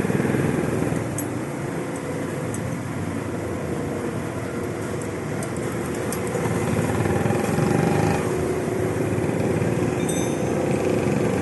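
Honda motorcycle engine running steadily, getting a little louder about two-thirds of the way through.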